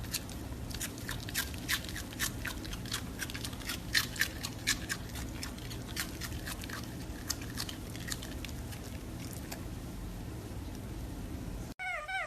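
A pet chewing, its mouth making a run of crisp clicks about three times a second that grow fainter after the middle.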